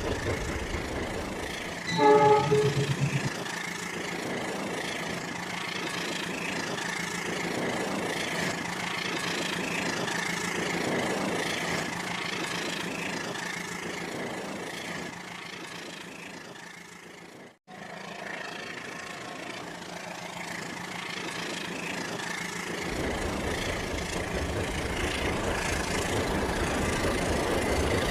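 Rail King toy train running on its track with a steady whirring and rattling, and a short electronic train horn sounding once about two seconds in. The running sound cuts out for a moment a little past halfway, then carries on.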